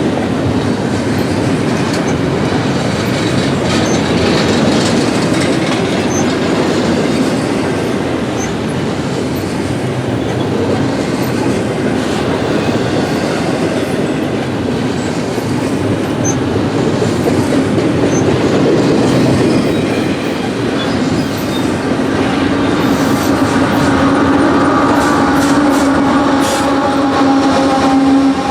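Freight train cars rolling past with a steady rumble and clickety-clack of wheels over rail joints, with scattered clicks. A steady droning tone comes in over the last several seconds.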